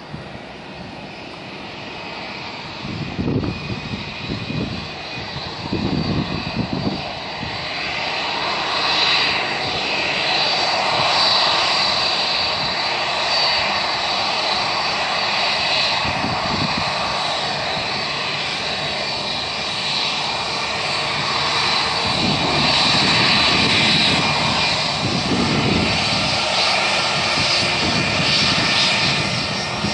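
Airbus A320-232's IAE V2500 turbofan engines running at high thrust on departure, growing louder over the first ten seconds and then holding a steady loud rush with a high whine over it.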